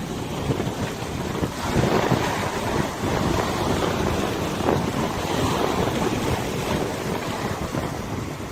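Wind buffeting the microphone over lapping river water: a steady rushing noise that swells about two seconds in.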